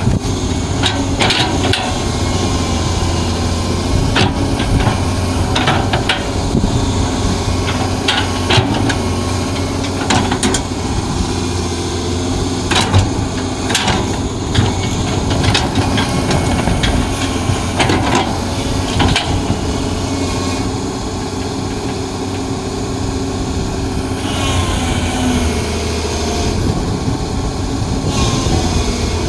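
Hydraulic excavator's diesel engine running steadily under working load, with frequent sharp knocks and clanks as it digs.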